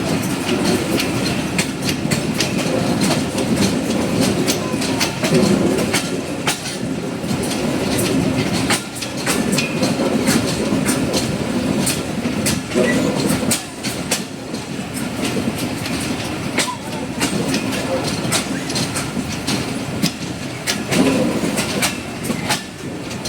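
Dhalarchar Express passenger train running, its wheels clacking over the rail joints in a steady stream of sharp clicks over a continuous rumble.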